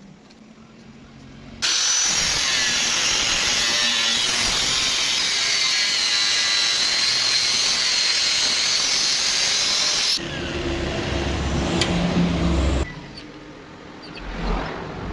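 A handheld power cutting tool starts abruptly about a second and a half in and makes a loud, steady, hissing cut for about eight seconds. It then changes to a lower, rougher running sound with a steady hum for a couple of seconds before it drops away near the end.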